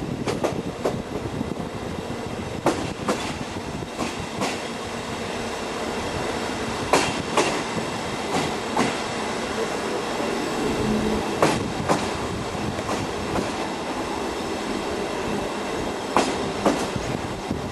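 Steam train hauled by BDZ 46 03 running along the line: a steady rumble with irregular sharp clicks and knocks from the wheels over the rail joints.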